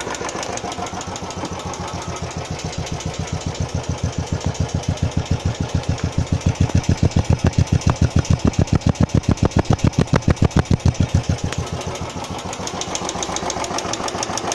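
Royal Enfield Classic 350's single-cylinder engine idling with a tik tik tappet noise, which the owner takes for a tappet problem that began after the first service. Its even beat grows louder about four seconds in and eases back near the end.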